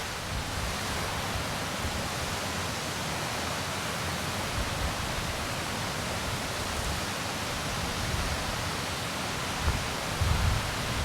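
Steady rain falling, an even hiss with no letup, with a few low rumbles near the end.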